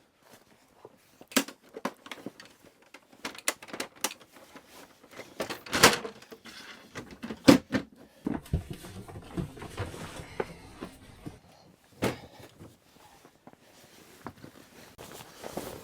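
Irregular knocks, clicks and rustling of objects being handled, with the loudest knocks about six, seven and a half and twelve seconds in.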